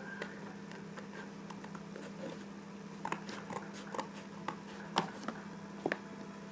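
Faint scattered clicks and light rustles, a little busier in the middle, over a steady low hum.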